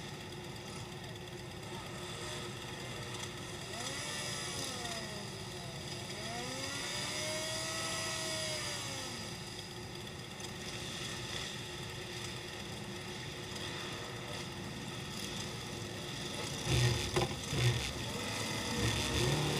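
Motorcycle engines running, with engine notes rising and falling partway through and a few short, louder throttle blips near the end.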